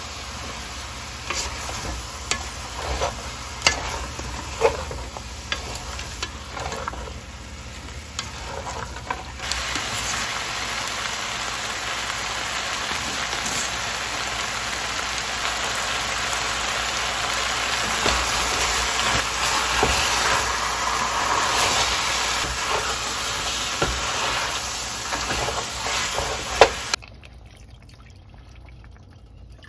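Duck pieces frying with onions and spices in a stainless steel pot, sizzling, with sharp knocks of a wooden spatula stirring against the pot in the first several seconds. The sizzle grows louder and steadier from about ten seconds in, then drops off suddenly near the end.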